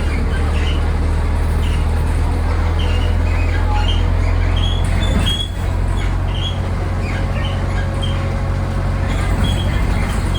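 Inside a moving city bus: the engine runs with a steady low rumble while body parts give many short, high squeaks and creaks at irregular intervals. The squeaks are the bus's own noises, which sound like dinosaur calls.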